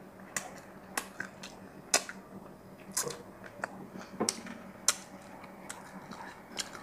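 Close-miked mouth sounds of a person chewing braised fish: sharp, irregular clicks and wet smacks, about one every half-second to second, with quiet between.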